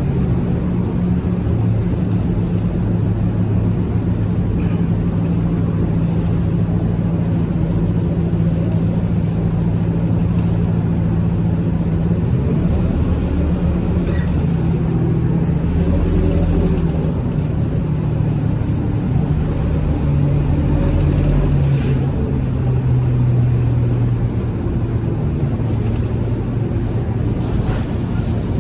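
Scania K230UB city bus's five-cylinder diesel engine running as the bus drives. Its pitch steps down and up several times with changing speed and gear, with a faint high whine gliding in pitch.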